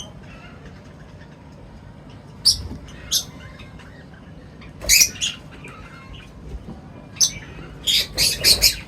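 Birds giving short, sharp chirps and squawks at feeding time: single calls scattered through the first seven seconds, then a quick run of four near the end, over a faint steady background noise.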